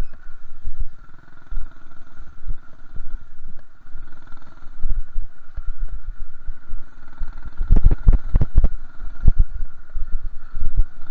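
Minibike's small engine running, going on and off the throttle in several stretches, with a steady high whine alongside. A cluster of loud thumps and knocks about eight seconds in.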